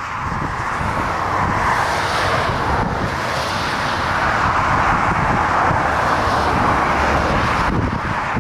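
Jet airliner on a landing approach in strong wind: a steady rushing engine noise with a low rumble that swells through the middle, and wind buffeting the microphone.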